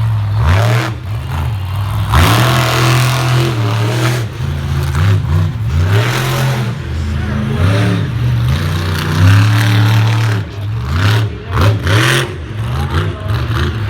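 Monster truck engine revving hard again and again, its pitch sweeping up and down in quick surges.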